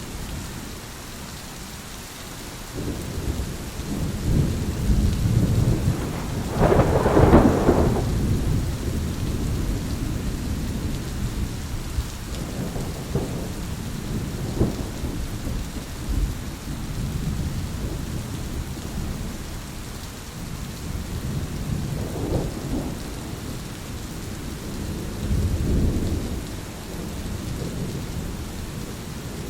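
Thunderstorm with steady rain and rolling thunder, a louder clap about seven seconds in and further rumbles later on.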